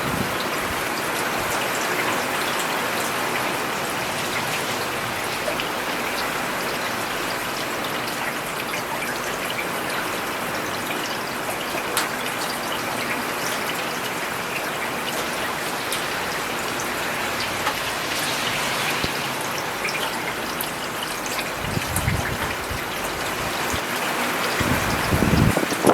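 Steady rainfall on a road: a dense, even patter of raindrops on the wet surface, with two brief deeper swells of sound in the last few seconds.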